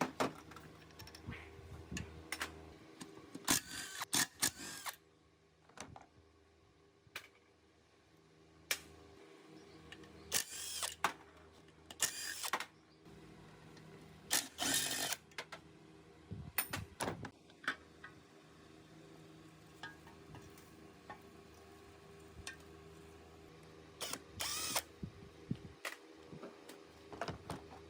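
Repeated short bursts of a handheld power tool, each about half a second to a second long, with metallic clicks and handling noises in between.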